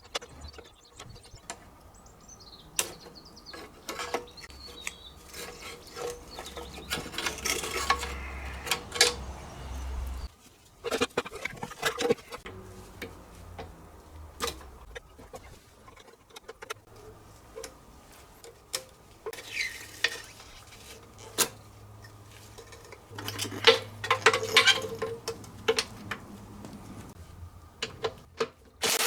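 Hand tools on metal car parts: repeated sharp metallic clicks, knocks and short scrapes at irregular intervals, with a low hum coming and going.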